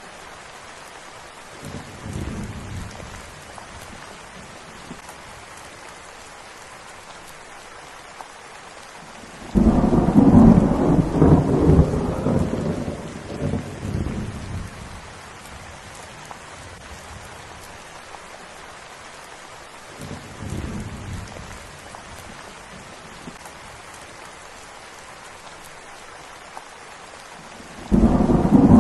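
Steady rain falling, with thunder: a soft rumble about two seconds in, a loud clap about nine and a half seconds in that rumbles away over several seconds, another soft rumble around twenty seconds, and a second loud clap near the end.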